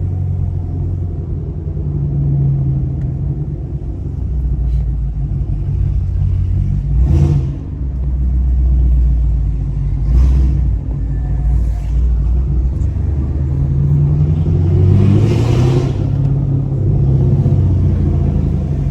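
Chevrolet Camaro SS 1LE's naturally aspirated V8 rumbling at city cruising speed, its low drone rising and falling in pitch as the car gathers and loses speed. A short swell of rushing noise comes about 7 s in and a longer one around 15 s.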